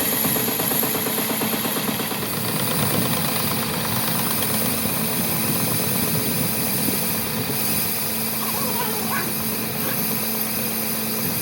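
Workshop machine running steadily with a constant hum and a dense mechanical noise, with a few brief squeaks near the end.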